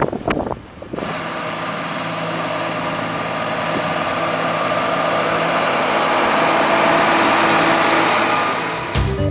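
A motor vehicle engine running steadily close by, at an even pitch, growing slowly louder and easing off near the end. A few short sharp knocks come in the first second.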